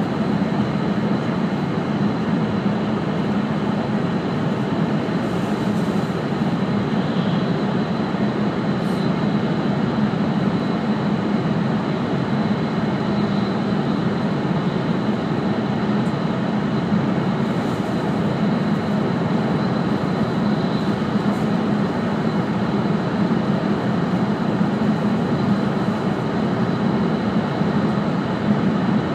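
E5 series Shinkansen running steadily, heard inside the passenger cabin: an even, unbroken rush and rumble, strongest in a low hum, with a faint high tone above it.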